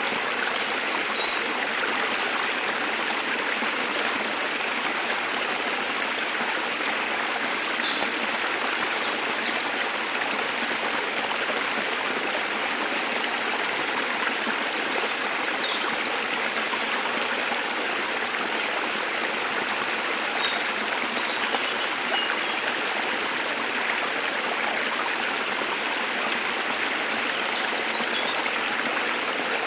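Steady rush of falling water from a waterfall, with a few faint, brief bird chirps scattered through it.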